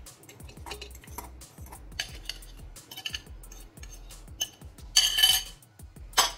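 Glass bowl clinking, knocking and scraping against the rim of a glass jar as mashed banana is emptied into it, with a louder scrape about five seconds in and a sharp knock near the end.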